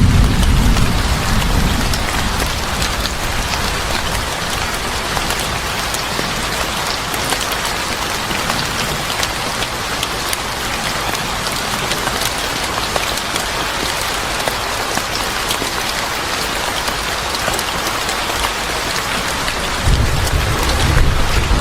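Steady heavy rain with a dense patter of drops on a surface. A low rumble fades out in the first couple of seconds and comes back near the end.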